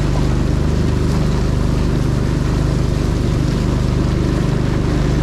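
Longtail boat engine running steadily under way, with a steady hiss over it.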